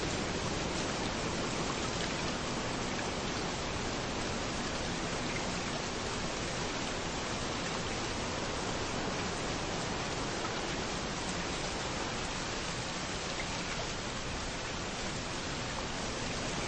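Steady rain falling on a beach, a continuous even hiss, with the low wash of surf rolling in underneath and swelling slightly near the end.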